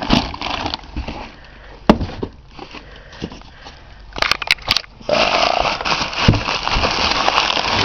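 Exhaust kit packaging being handled during unpacking: scattered crackles and sharp clicks, then steady, dense crinkling and rustling from about five seconds in.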